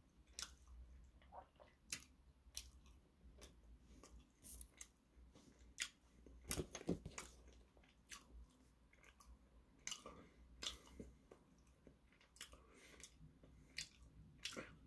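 Faint chewing of a soft red-bean bun: quiet, scattered wet mouth clicks and smacks over near silence, with a short cluster of louder clicks about six and a half seconds in.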